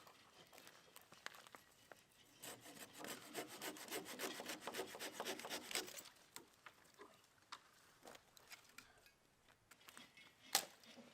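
Rasping, scraping sound of many quick strokes, loudest for about three and a half seconds starting a couple of seconds in, then fainter scrapes and one sharp knock near the end.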